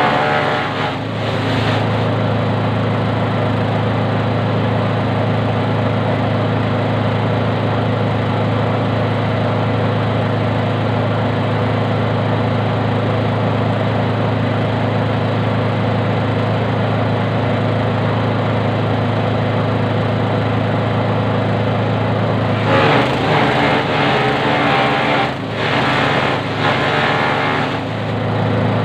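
Small engine-driven grass chopper running steadily at speed. Near the end it gives a few seconds of louder, rougher noise, twice.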